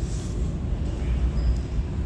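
Steady low mechanical rumble with no distinct events.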